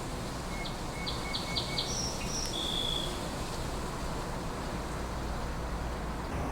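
A small bird sings a short phrase of quick high chirps, ending on one longer note about three seconds in. Under it runs a steady low rumble of distant city traffic.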